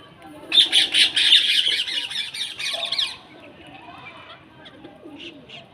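Birds squawking: a loud, harsh burst of rapid chattering calls starts about half a second in and lasts about two and a half seconds, followed by fainter scattered calls.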